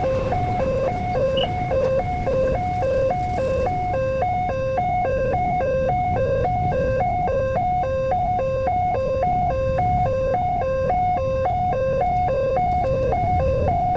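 Railway level crossing warning alarm sounding a steady electronic two-tone signal, a higher and a lower note alternating evenly, the warning that a train is approaching and the barriers are closing. A low rumble of vehicles runs underneath.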